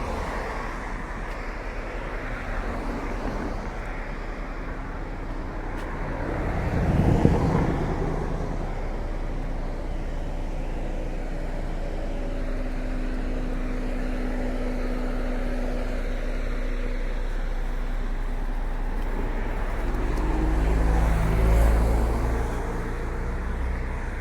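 Road traffic: cars passing on the road over a steady traffic noise, with one loud close pass about seven seconds in and another vehicle's engine swelling and fading around twenty seconds in.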